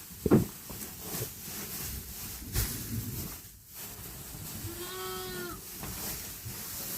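A sheep bleating once, a short call about five seconds in, over low rustling in the straw, with a knock just after the start.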